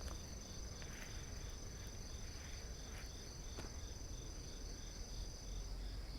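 Crickets chirring: one high continuous trill that stops near the end, and a lower one pulsing nearly three times a second, over a low rumble, with a few faint clicks.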